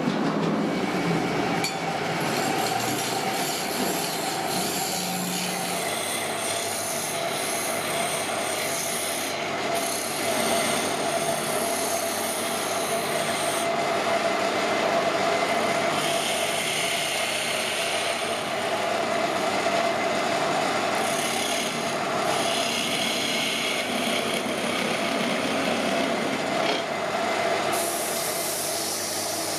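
A hand woodworking tool scraping steadily across wood, with continuous noise and no distinct strokes.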